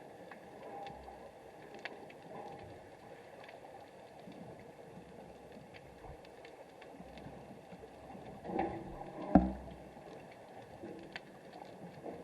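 Muffled underwater ambience picked up by a submerged camera: a low, steady wash of water noise with scattered faint clicks, a brief swell of sound a little past eight seconds in and a single dull knock just after nine seconds.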